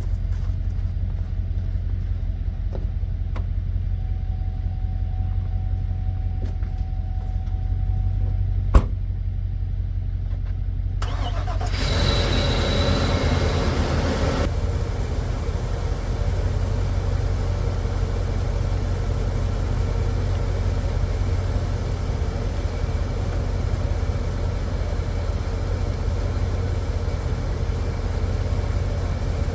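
GMC truck engine cranking for about three seconds on a freshly installed battery, catching and settling into a steady idle. A single sharp click comes a couple of seconds before the cranking.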